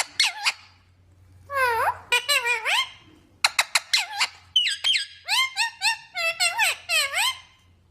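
Green parrot calling: three bursts of short, sharp squawks and pitch-sliding calls, with brief pauses between them.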